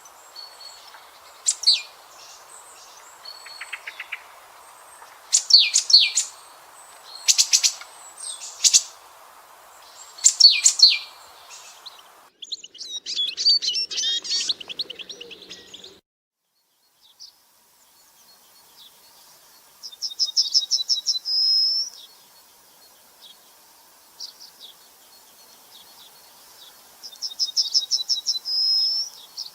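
Wild birds calling: repeated sharp high chirps over a faint steady background hum, then a patch of busier chatter. After a short silence a bird twice sings a fast run of notes that ends in a short high note.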